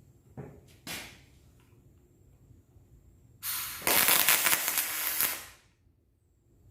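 Welding arc on a diesel fuel tank, crackling steadily for about two seconds as a short weld pass is laid, then stopping abruptly. A couple of light knocks come before it.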